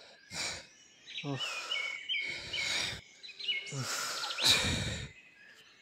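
A bird chirps a run of short, repeated notes. Around it come several breathy bursts with brief low grunts, like men panting after a fight.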